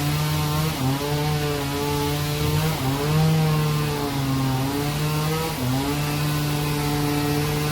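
Engine-driven saw cutting through a log, the motor's pitch holding steady, then dipping and recovering several times as it takes the load of the cut.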